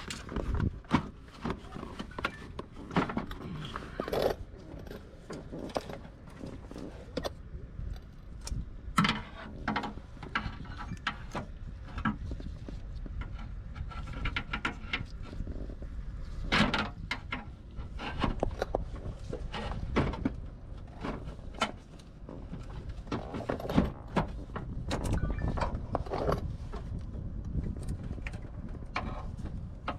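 Hand tools and metal parts clinking and knocking at irregular intervals, with a few short runs of quick clicks, during work on a car's radiator.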